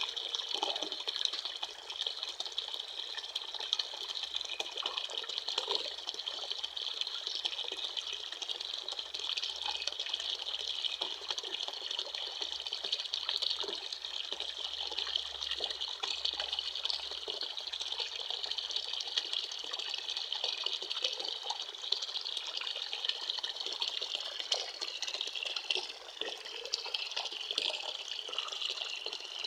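Water running and splashing steadily, an even rushing hiss with small irregular splashes.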